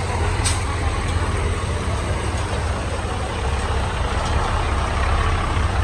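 Heavy truck diesel engine running with a steady low rumble, and a short sharp click about half a second in.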